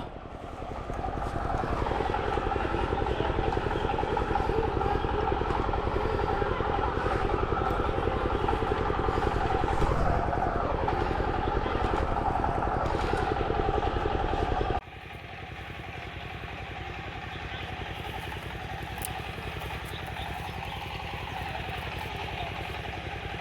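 Steady mechanical hum of a motor or engine with a few held tones, dropping suddenly to a quieter hum about fifteen seconds in.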